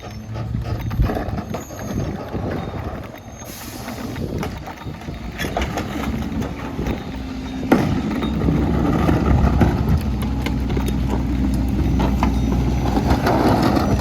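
Mack MR rear-loader garbage truck's diesel engine running, with scattered knocks and clanks. About eight seconds in a sharp knock sounds and the engine speeds up and runs louder and steadier.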